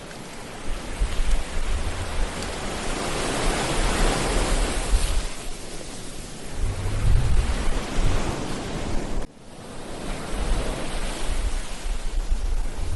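Ocean waves breaking and washing up a beach, one surge building to a peak about four seconds in, with wind rumbling on the microphone at times. The sound cuts out abruptly for a moment about nine seconds in and swells back.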